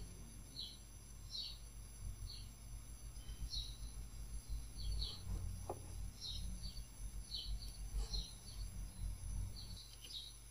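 Faint, short, high bird chirps, about one a second at irregular intervals, over a low steady hum.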